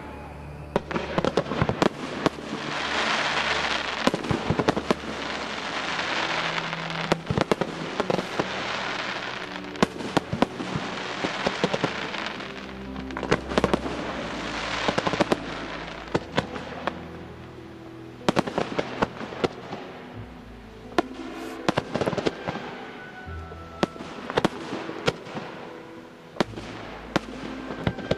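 Fireworks display: aerial shells launching and bursting with many sharp bangs in quick succession, over music playing underneath.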